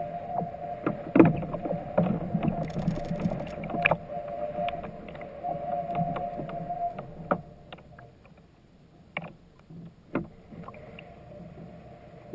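Kayak afloat: water moving against the hull with a steady hum for the first seven seconds, then quieter, and sharp knocks about a second in and a few more later.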